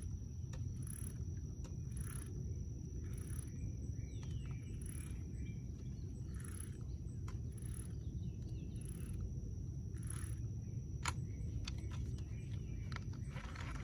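Fishing line being picked out of a backlashed reel by hand: soft rustles repeating about once a second, with a few light clicks near the end, over a steady low rumble.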